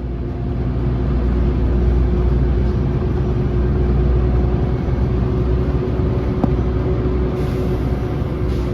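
City bus engine and road noise heard from inside the cabin while the bus drives, a steady low rumble with a constant hum that gets a little louder over the first two seconds.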